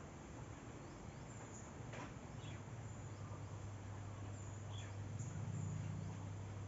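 Outdoor nature ambience: a few short bird chirps and faint high calls over a steady low hum that grows slightly louder through the second half.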